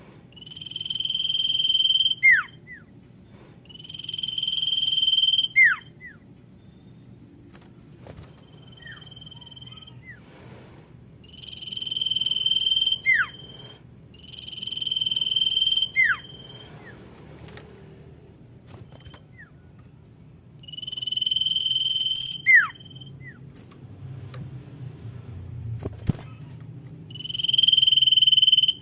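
Female common iora calling: a long, steady whistle held about a second and a half that swells in loudness and ends in a quick downward slur, repeated about six times with a few seconds between calls.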